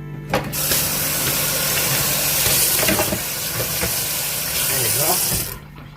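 Kitchen tap running cold water over raw pork ribs in the sink, starting about half a second in and shut off suddenly near the end.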